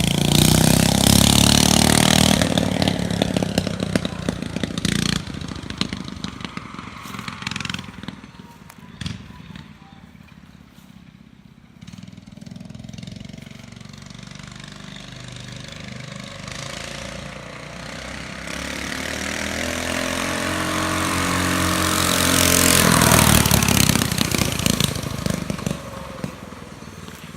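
Motovox mini bike's Predator 212cc single-cylinder engine revving as the bike pulls away and fades into the distance. It comes back, getting louder until it passes closest about 23 seconds in, then fades again.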